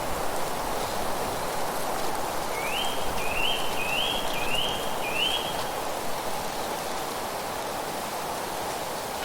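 A songbird sings one quick phrase of five repeated notes, each sliding upward and then holding, about two and a half seconds in. Under it runs a steady rushing noise, the kind made by wind through foliage or by running water.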